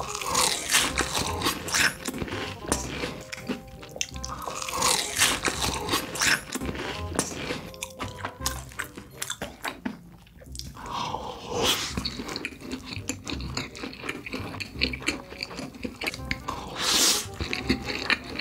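Close-miked biting and chewing of crunchy fried food, with loud crunches at each bite, over background music with a steady beat.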